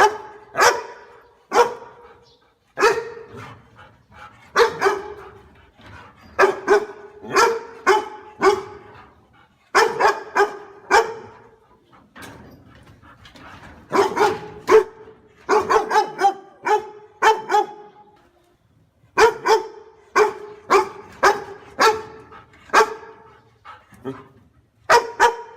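Dog barking repeatedly, in quick runs of two to four barks separated by short pauses, with one longer pause about two-thirds of the way through.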